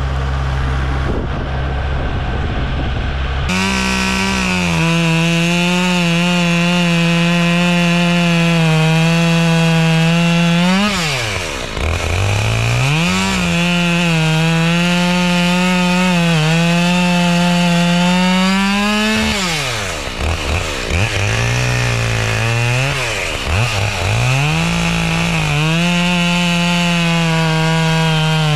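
Chainsaw idling, then revved to full throttle at about three and a half seconds and cutting firewood logs. The engine note drops twice as the throttle is let off and climbs back up for the next cut.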